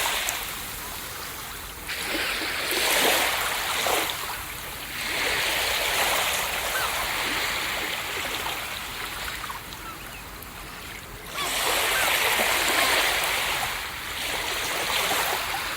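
Ocean surf breaking on a beach: waves wash in as repeated swells of hissing water that rise and fade every few seconds, one breaking more suddenly and loudly about two-thirds of the way through.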